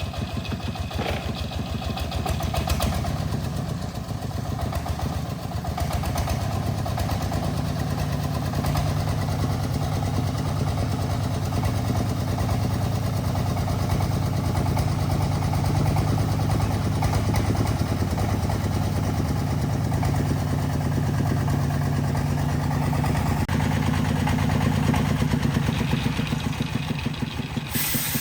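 Truck engine running steadily, a low even engine note with a fast regular pulse.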